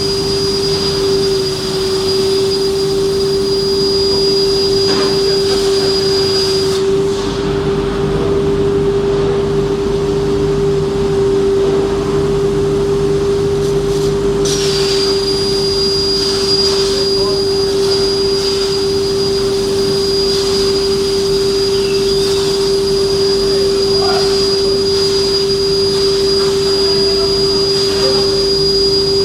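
CNC plasma metal-cutting machine running: a steady hum with a high whine over it that stops about seven seconds in and comes back about eight seconds later.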